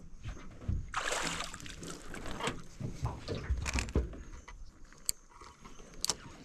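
Irregular rustling, knocking and water sloshing in a small fishing boat while a freshly caught fish is handled, with a few sharp clicks near the end.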